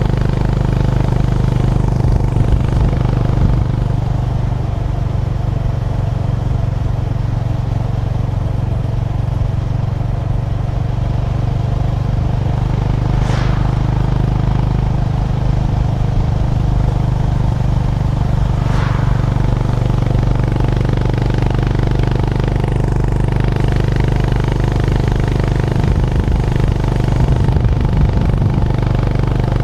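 Honda GB350's air-cooled single-cylinder engine running at a steady cruise, its note holding even. Two brief sharp sounds come partway through, about five seconds apart.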